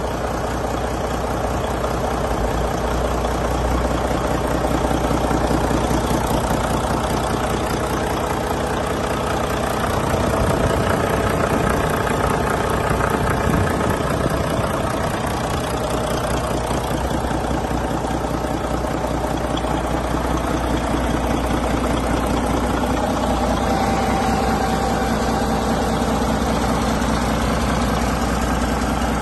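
Volvo D13 inline-six diesel engine idling steadily on a test run, a little louder for a few seconds around the middle.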